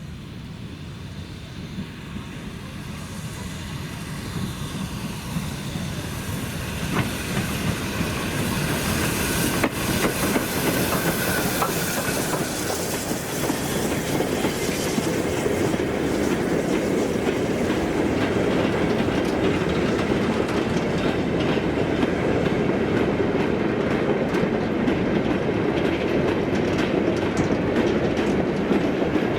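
A train on the line growing louder over the first ten seconds or so, then running close by with a steady, loud clatter of wheels over the track.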